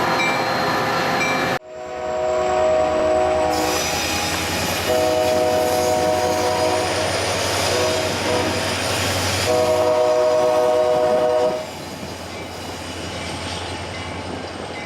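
A Metra train's horn sounding a chord in several long blasts, the last the loudest, over the rumble of the passing train. The horn stops about three quarters of the way through, and the train keeps running past.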